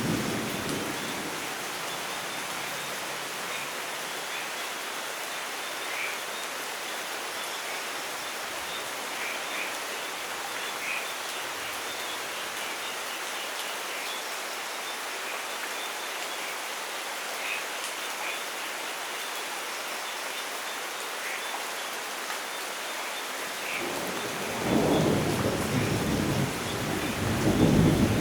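Steady rain falling with scattered individual drops. The tail of a thunder rumble fades at the start, and rolling thunder builds again about three seconds before the end, swelling louder right at the end.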